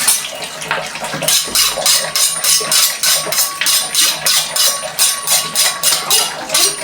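Kitchen knife chopping quickly on a cutting board, an even run of sharp taps at about four strokes a second starting about a second in.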